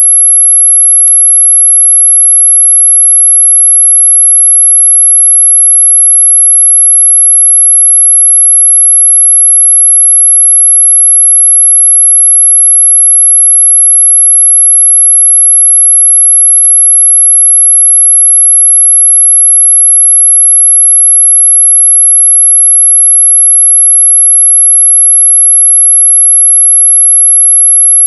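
A loud, steady, very high-pitched pure electronic tone that holds one unchanging pitch, played as a mosquito-repellent sound. It is within normal hearing, not truly ultrasonic.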